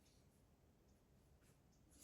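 Near silence: room tone, with a couple of faint short clicks.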